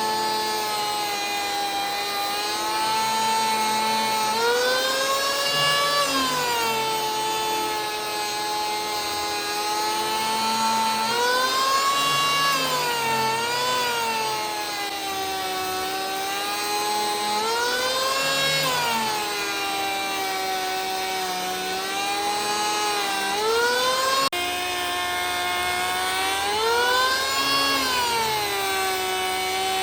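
Electric power tool motor whining as it works wood, its pitch sagging under load and rising again as the load eases, over and over.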